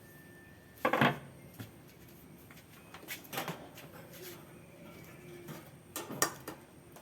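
Metal parts and tools being handled on a workbench: a few sharp clinks and knocks about a second in, around three and a half seconds in and again near six seconds, over a faint steady hum.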